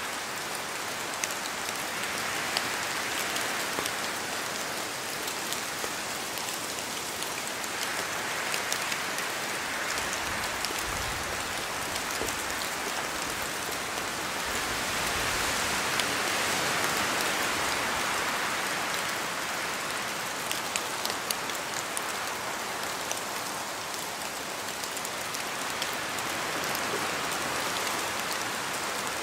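Steady rain in a forest, with scattered sharp drips of drops falling from the trees, and wind swelling and easing in slow gusts every several seconds.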